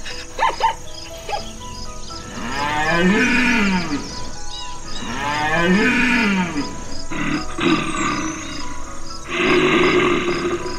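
Animal calls over background music with a steady ticking beat: a few short sharp sounds, then two long calls that rise and fall in pitch, then rougher growl-like calls near the end.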